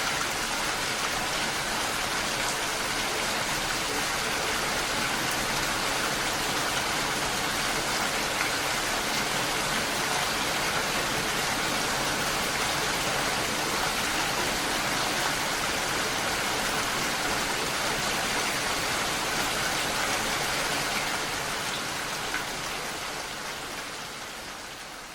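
Steady rainfall, an even dense hiss of drops, fading out near the end.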